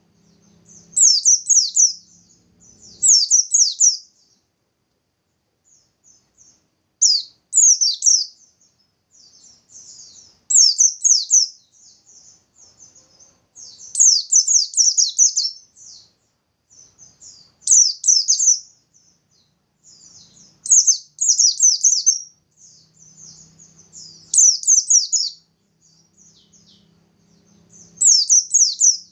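Pleci (white-eye, 'bustomi' type) singing in its vigorous 'nembak' style: loud, high-pitched bursts of rapid notes, each about a second long, coming every three to four seconds, with softer twittering in between.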